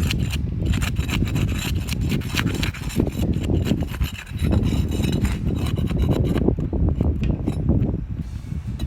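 Pry bar scraping and rasping under asphalt roof shingles as they are pried up, with repeated scrapes and short clicks.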